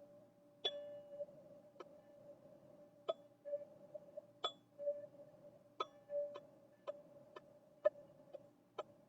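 Teal ZenTube sound-healing instrument struck about a dozen times, each a sharp tap followed by a ringing tone; the strikes come closer together toward the end.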